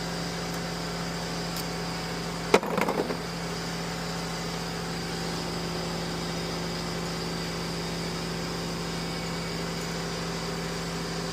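Steady machine hum. About two and a half seconds in comes one sharp metallic clank, followed by a brief rattle of parts.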